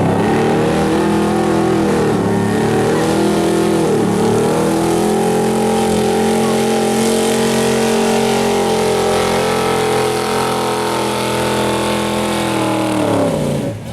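Pulling truck's engine held at high revs under full load as it drags the sled, its pitch dipping briefly twice in the first few seconds. Near the end the revs fall away sharply as the driver comes off the throttle.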